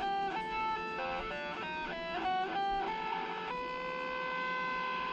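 Guitar playing a quick melodic run of single notes, settling about three and a half seconds in on one held note that cuts off suddenly at the end.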